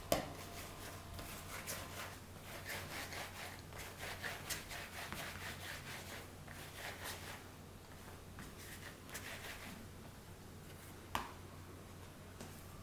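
Kitchen work sounds: irregular rubbing and scraping with light clicks, a knock at the start and a sharper knock about eleven seconds in.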